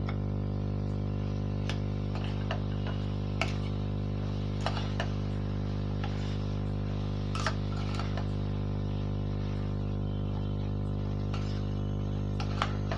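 Steel ladle clinking and scraping against a hard-anodized pan as mushrooms are stirred into the masala, with scattered sharp clinks at irregular intervals over a steady electrical hum.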